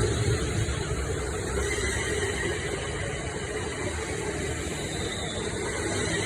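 London Northwestern Railway Class 350 Desiro electric multiple unit pulling away from the station, a steady running rumble as the train moves past.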